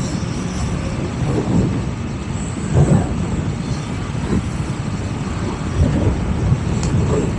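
Yamaha MT-09's three-cylinder engine running under steady wind rush on a helmet-mounted microphone while riding, with the rumble swelling briefly about three seconds in and again near six seconds.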